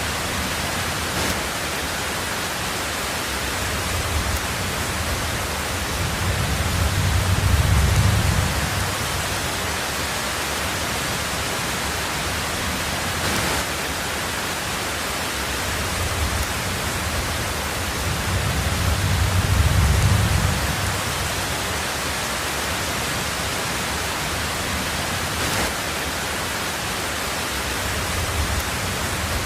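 Steady heavy rain on a tin roof, with low rolls of thunder that swell and fade twice, about a quarter of the way in and again about two-thirds through, and a third beginning near the end.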